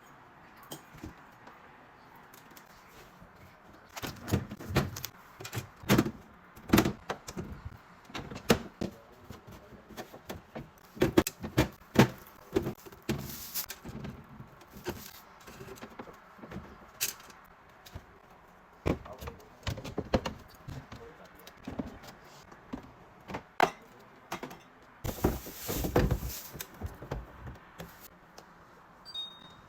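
Food containers, jars and packages being set onto fridge shelves and into door bins: irregular knocks, clunks and clatters, with a longer noisy sound about 25 seconds in.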